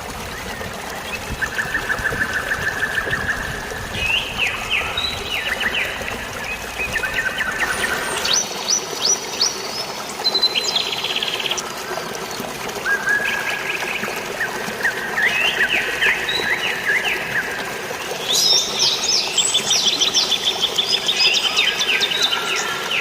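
Several songbirds singing at once, with rapid trilled and chattering phrases overlapping, busiest near the end. Underneath runs a steady hiss of rain and running water.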